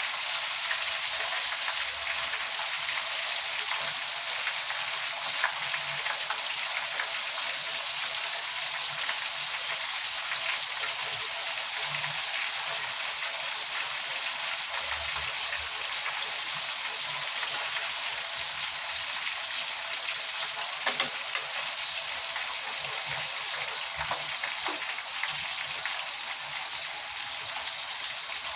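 Chicken pieces frying in hot oil: a steady sizzle with scattered small pops and crackles, a few louder pops about two-thirds of the way through.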